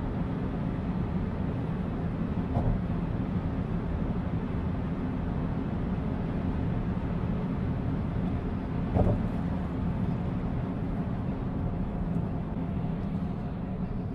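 Steady low road and engine noise of a car driving, with two brief louder sounds about two and a half and nine seconds in.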